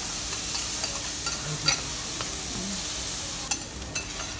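Food sizzling on a teppanyaki steel griddle, a steady hiss, with metal spatulas scraping and clicking against the hot plate every now and then, more clicks near the end.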